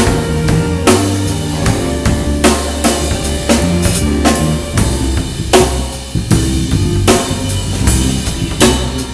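Band music led by a drum kit, with kick drum, snare and cymbal strokes in a steady beat over bass and other pitched instruments.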